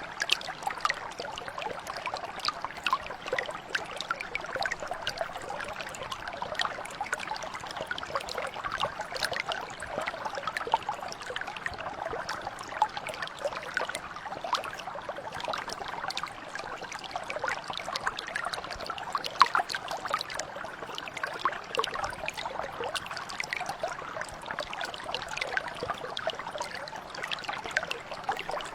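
A small mountain brook flowing and babbling steadily over stones, with lots of fine trickling and splashing.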